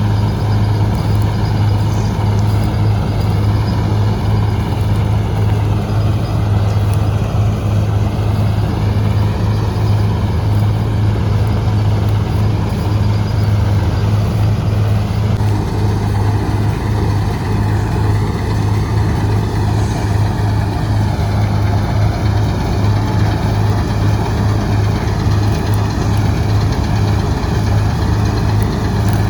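Preet 987 combine harvester running steadily as it cuts wheat: a loud, even engine drone under the clatter and hiss of the machinery.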